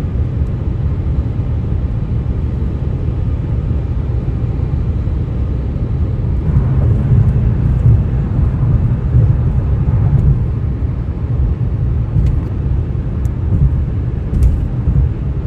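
Tyres running on highway pavement: a steady low road rumble that swells a little about halfway through, where a faint higher hum joins in. This is the eerie 'ghost noise' the road surface makes under traffic.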